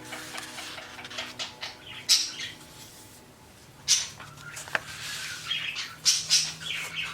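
Paper rustling and crackling as the pages of a handmade accordion junk journal are turned and handled, in irregular bursts with sharper crackles about two, four and six seconds in.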